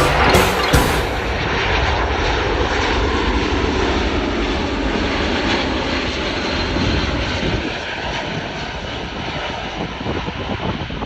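Boeing C-17 Globemaster III's four turbofan engines running loud as the jet passes, a broad steady rush that eases off near the end.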